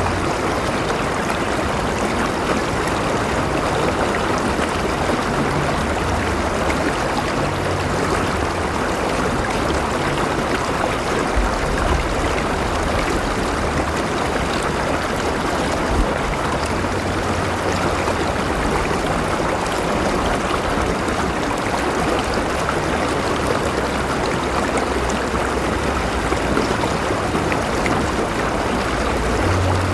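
River water flowing steadily over rocks, a continuous rushing and burbling with some low rumble.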